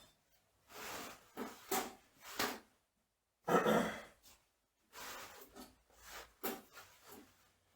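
Rustling of packing material being handled, in a string of short bursts; the loudest is about three and a half seconds in.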